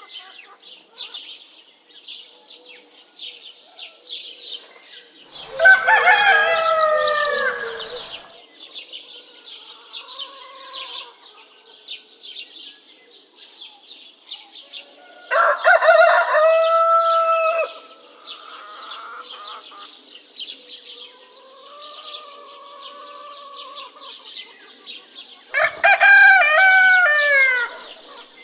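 Rooster crowing three times, about ten seconds apart, each crow lasting about two and a half seconds. Hens cluck softly between the crows, over a steady high chirping in the background.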